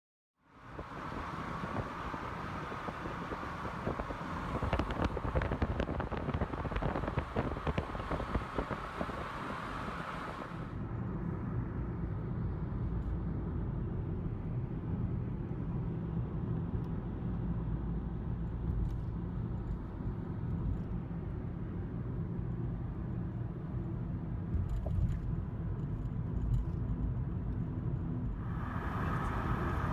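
Car on the road: steady engine and tyre noise, with no voices. The sound changes abruptly about eleven seconds in, from a brighter hiss with small ticks to a low, dull rumble, and brightens again near the end.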